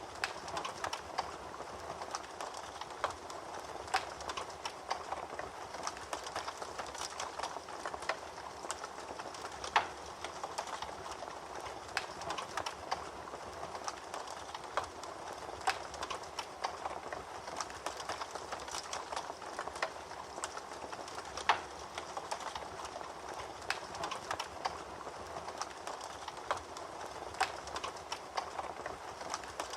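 Wood fire crackling in a fireplace: a steady hiss of burning with irregular sharp pops and snaps, a few of them louder, about 4, 10 and 21 seconds in.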